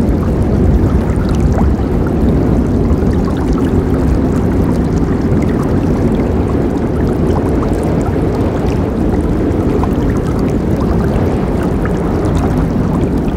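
A forest river flowing steadily: a full, low rush of water with small splashes.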